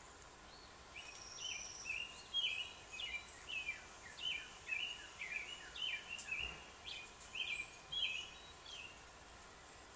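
Small songbird chirping: a run of short, falling chirps, one or two a second. They start about a second in and stop near the end.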